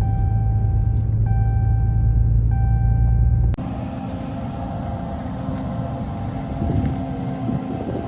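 Heavy farm machinery engine rumbling steadily, with three long electronic warning beeps in the first few seconds. About three and a half seconds in it cuts abruptly to a different, hissier machine running steadily.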